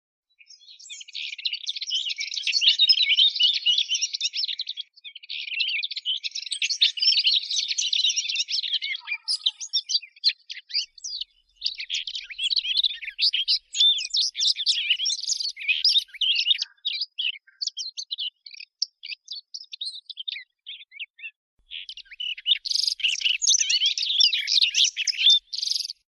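Fig bird (a Sylvia warbler) song: fast, chattering warbling phrases. The song breaks into scattered short notes midway, then comes back in a dense burst near the end.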